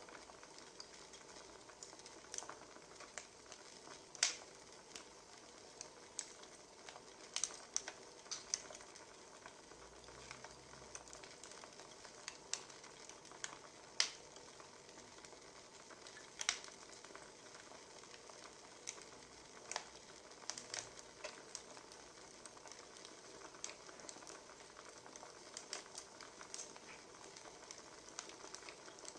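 Wood fire crackling: a steady soft hiss with irregular sharp pops and snaps, a few of them louder.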